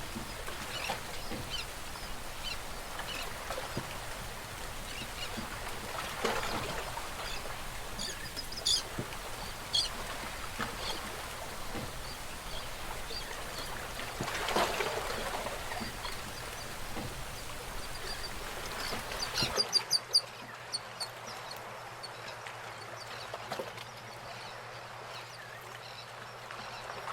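Outdoor ambience with short, high bird chirps scattered through it; the background changes abruptly about two-thirds of the way in.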